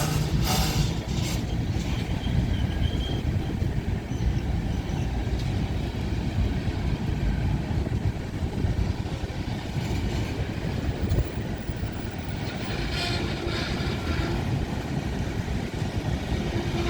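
CSX manifest freight train's cars rolling past: a steady, continuous low rumble of steel wheels on rail, with a brief higher-pitched squeal about three-quarters of the way through.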